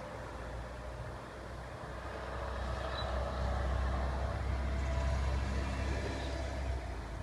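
Low rumble of a passing road vehicle, swelling about two seconds in and dropping away near the end.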